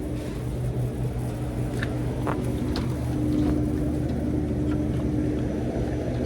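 Steady low mechanical hum with a constant droning tone, broken by a few faint clicks and ticks.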